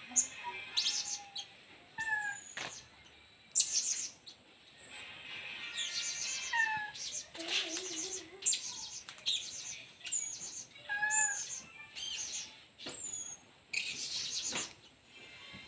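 Blue-crowned hanging parrot (serindit) calling: repeated short, shrill chirps in irregular bursts, mixed with a few brief sliding calls.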